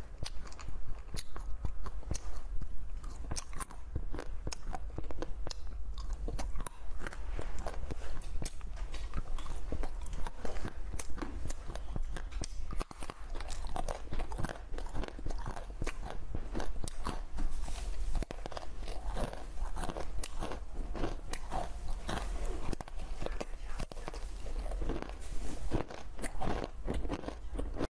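Someone biting and chewing small, crunchy raspberry-shaped candies, with many sharp crunches one after another.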